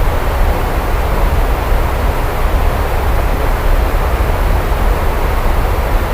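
Steady heavy rain, an even dense hiss over a constant deep low rumble, with no separate claps or breaks.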